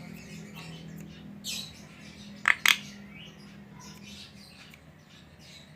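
Javan myna calling: scattered faint chirps, a harsh call about a second and a half in, then two loud, sharp squawks in quick succession. A low steady hum runs underneath and stops about four seconds in.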